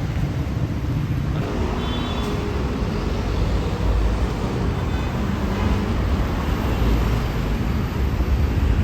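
Road traffic passing close by: a steady low engine and tyre rumble from passing vehicles.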